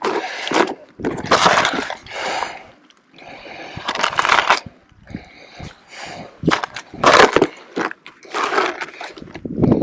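Irregular rustling, knocking and clattering of gear being handled close to the microphone, in uneven bursts.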